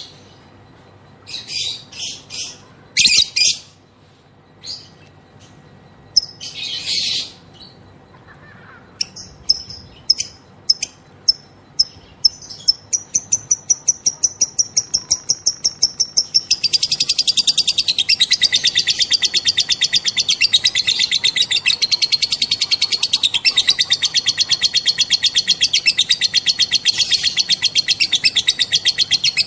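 Female lovebird calling. A few separate high chirps give way to a quick run of ticking notes that speeds up, then, about halfway through, to a long, dense, high-pitched chattering trill: the lovebird's 'ngekek'.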